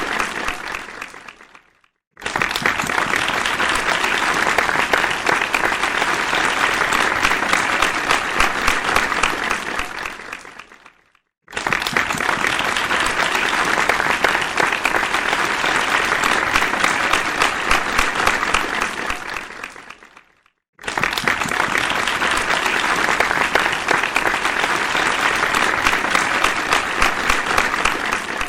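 Crowd applause, many hands clapping densely. It comes in three bursts of about nine seconds, each starting suddenly and fading away, with a moment of silence between them; a fading burst also ends about two seconds in.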